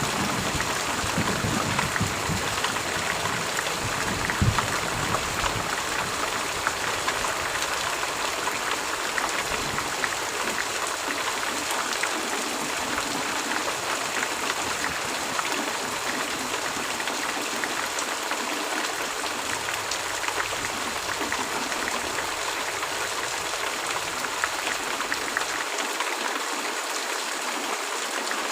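Steady heavy rain, an even hiss of falling water, with a low rumble of thunder dying away in the first few seconds.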